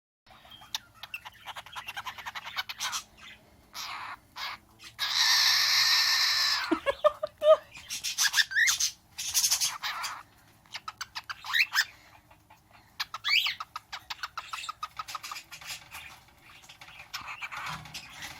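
Young pet cockatiel vocalizing: rapid trains of clicks and chatter, a loud harsh squawk lasting about a second and a half about five seconds in, and several short whistled notes sliding up and down.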